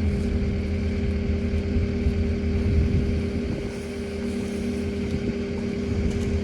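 Skid steer engine running steadily at working speed, a constant engine hum with a little wind noise on the microphone.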